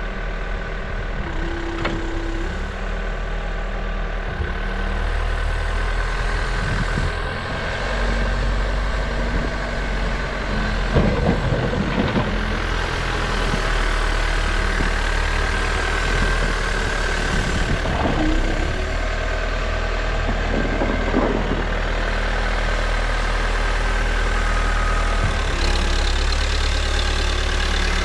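Diesel engine of a New Holland backhoe loader running steadily, with a few short clunks heard around the middle.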